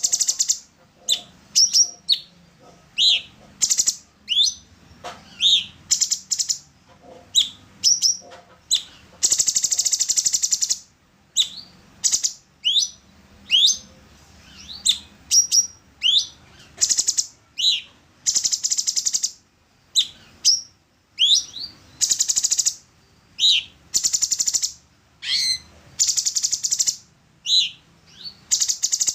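Orange-bellied leafbird singing: a string of quick rising whistled notes mixed with harsh, buzzy chatters about a second long, delivered in bursts with short pauses between them.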